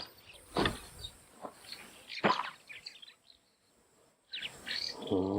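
Scattered rustles and knocks, with birds chirping; a short low voiced hum near the end.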